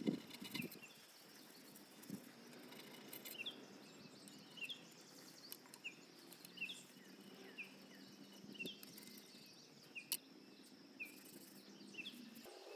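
A bird repeats a short, high, falling chirp about once a second in quiet outdoor air. There are a few faint clicks, likely from a blade scraping the glazed ceramic sink.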